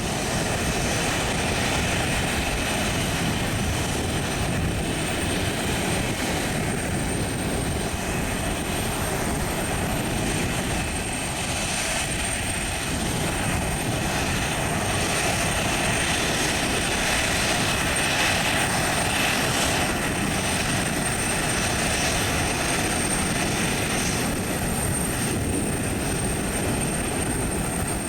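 Boeing 737-700 jet engines running, a steady, loud rushing noise that holds at much the same level throughout.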